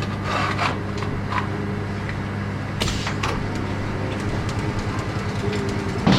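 A factory machine running with a steady electrical hum, with a few brief metallic knocks about three seconds in and again near the end.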